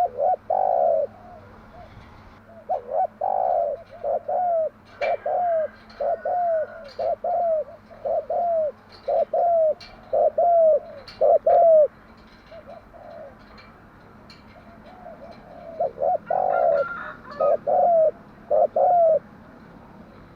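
Spotted dove cooing: a run of short, repeated coo notes for about twelve seconds, a pause of a few seconds, then another short series of coos.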